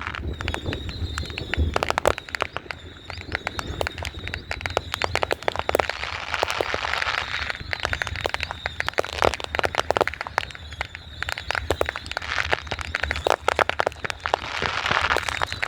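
Fireworks and firecrackers going off: a dense, irregular run of sharp pops and bangs, with stretches of crackling swelling and fading.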